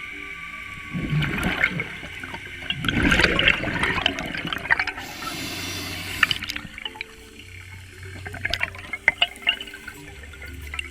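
Scuba regulator exhaust bubbles rushing and gurgling underwater in bursts, the louder burst about three seconds in, followed by a brief hiss.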